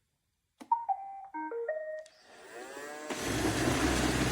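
A click, then a short start-up tune of stepped electronic beeps from an iRobot Roomba Vac Essential (Q0120) robot vacuum. A rising whine follows as its motors spin up, and from about three seconds in the steady noise of its suction and brushes takes over.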